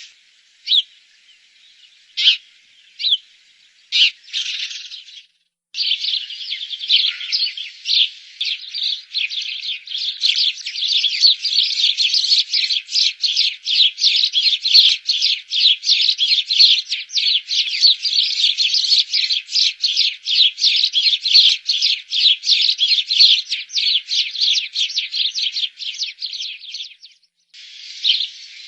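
Sparrows chirping: a few scattered single chirps at first, then, after about five seconds, a dense, continuous chatter of rapid high chirps, several a second, that breaks off briefly near the end.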